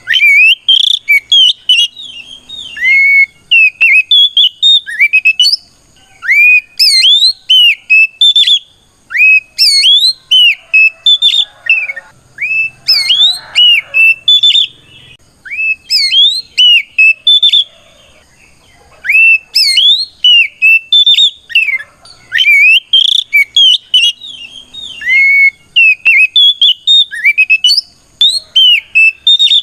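Oriental magpie-robin (kacer) singing its loud challenging song: rapid phrases of sharp whistled notes and swooping slurs, repeated with short pauses of a second or so. It is the aggressive song of a bird calling out a rival male.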